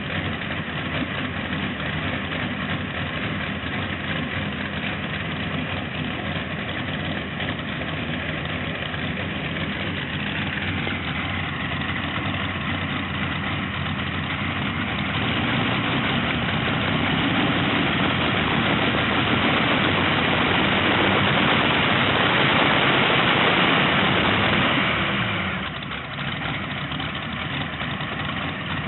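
Tractor engine idling steadily, then revved up gradually from about ten seconds in. It is held at higher revs, louder, for several seconds, then drops back sharply to idle a few seconds before the end.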